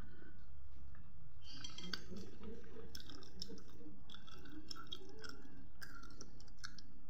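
Crispy fried cempedak fritter being pulled apart by hand and chewed, with scattered small crackles starting about a second and a half in.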